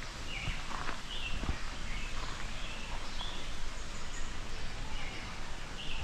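Outdoor ambience with birds chirping: short high calls, several of them scattered across, over a steady background hiss.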